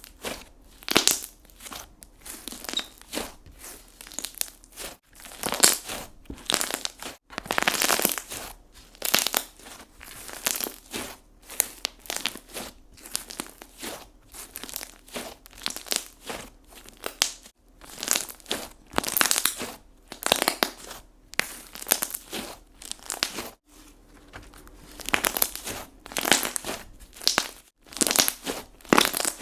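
Hands squeezing, stretching and pressing slime, giving a series of short, irregular squishing and crackling sounds, about one or two a second.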